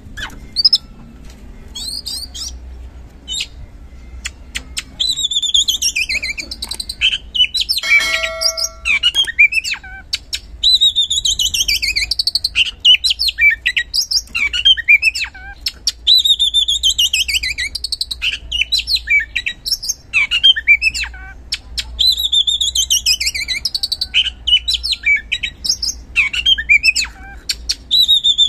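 Oriental magpie-robin (kacer) singing loudly in the open 'ngeplong' style: clear whistled phrases that slide down in pitch, repeated every few seconds, with quick chirps and twitters between them. About eight seconds in, a brief steady-pitched buzzy note cuts in.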